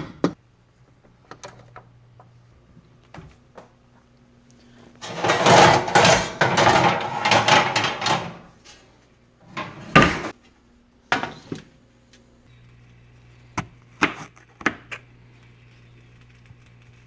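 Kitchen handling sounds: about three seconds of dense clattering and rustling, then a handful of sharp single knocks of utensils or cookware, over a faint steady hum.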